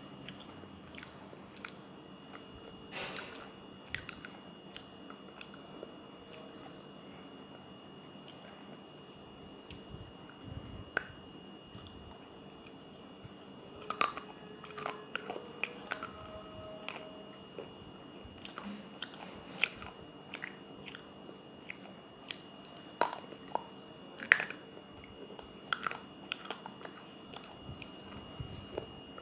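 A person biting and chewing pieces of a water-soaked clay kulhad cup, with wet crunches and crackles at an uneven pace. The sharpest crunches come about halfway through and twice near the end.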